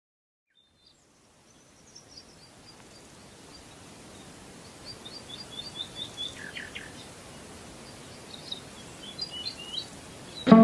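Songbirds chirping in short, quick series over a faint, steady outdoor ambience that fades in after about a second of silence. Plucked guitar music comes in suddenly at the very end.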